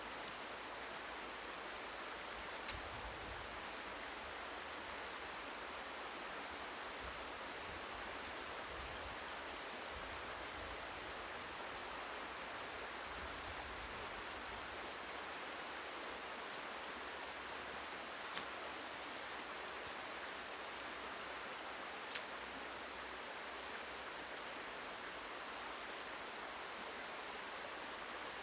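Steady rush of a flowing river, with three brief sharp clicks: one near the start, and two about two-thirds of the way through.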